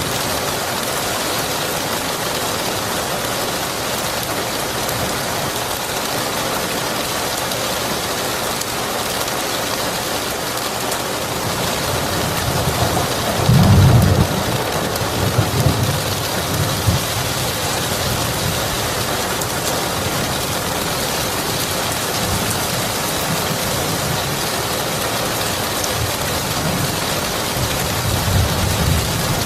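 Steady rain falling throughout, with rolls of thunder. A low rumble swells about halfway through, is loudest for a moment, then trails off over a few seconds. A fainter rumble comes near the end.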